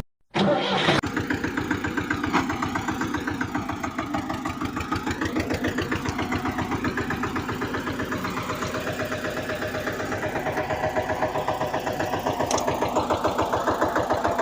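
A small engine-type running sound, starting a moment in: a steady chugging with a fast even beat and a faint whine that climbs slowly in pitch.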